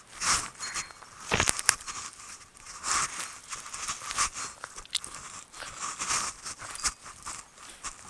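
A corgi chewing and breaking a stick, making irregular crunches and sharp snaps.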